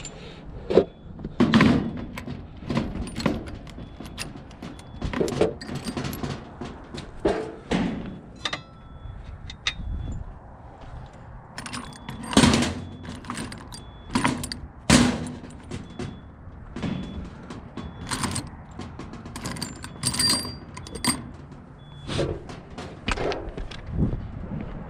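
Scrap metal being handled and loaded: a long run of irregular clanks, bangs and rattles as pieces are dropped and knocked together, with the loudest hits about 12 and 15 seconds in.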